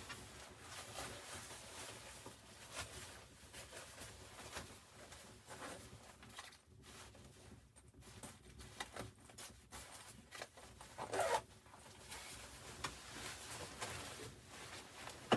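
A series of short, irregular rasping and rustling strokes, quiet overall, with a louder, longer rasp about eleven seconds in.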